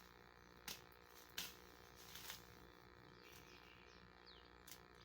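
A few sharp knocks, the first two loudest, over a quiet outdoor background with faint short falling bird chirps.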